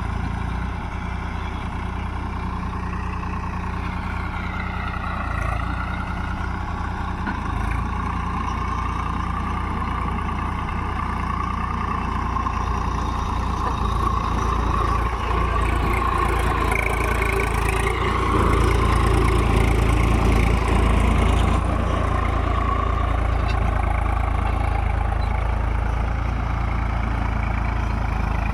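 Tractor diesel engine running steadily, its pitch dipping and recovering a few seconds in and growing louder for a few seconds past the middle.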